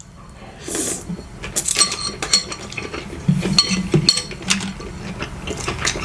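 Eating utensils clinking and scraping against a bowl, a string of sharp, short ringing clinks.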